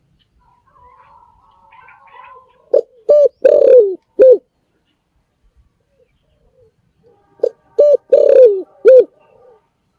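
Spotted dove cooing: two phrases about four and a half seconds apart, each of two short coos, a longer coo that falls in pitch, and a short closing coo.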